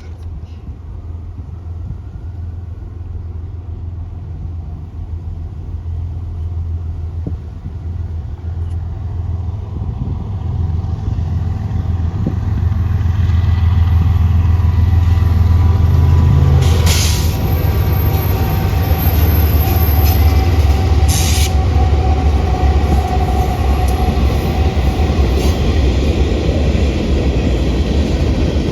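Freight train rolling past on the rails, a low steady drone with wheel and car rumble that grows louder over the first half and then holds. Two short, sharp clanks come about two thirds of the way through.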